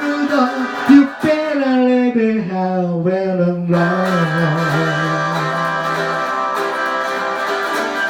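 Rockabilly guitar music: a bending, descending run, then a final chord struck about three and a half seconds in and left ringing.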